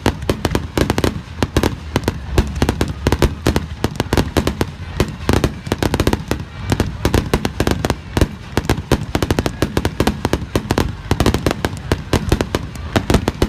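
Fireworks going off in a dense, rapid barrage: a continuous crackle of many sharp bangs each second over a low rumble.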